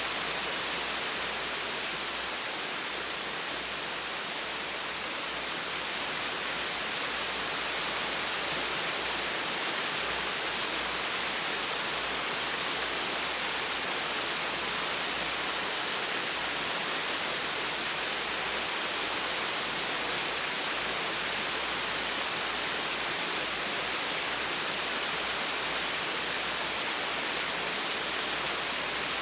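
Small waterfall: a steady, even rush of falling water splashing into a pool, hissing brightly with little low rumble.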